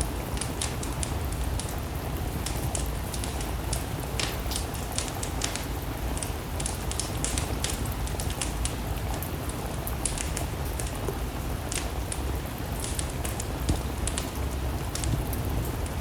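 Steady rain mixed with a wood fire burning, its crackles and pops coming as frequent irregular sharp snaps over a low steady rumble.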